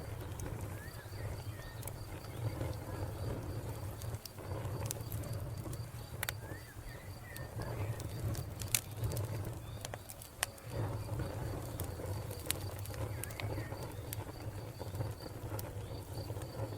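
Wood fire crackling, with scattered sharp pops over a low steady rumble. A cricket chirps in a fast, even pulse throughout, and a bird gives short warbling calls a few times.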